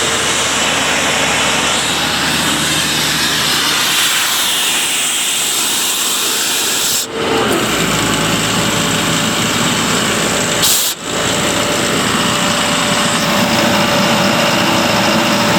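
Kaeser M114 diesel-powered portable rotary screw air compressor running steadily. There are two short dips in the sound, about halfway through and again about four seconds later, and the low rumble grows stronger after the first.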